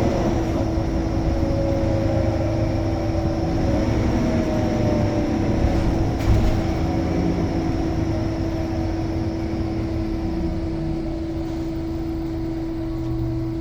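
Scania L94UB Omnicity bus running, a low rumble with a steady whine over it and engine notes that fall and shift as it drives. There is a single knock about six seconds in.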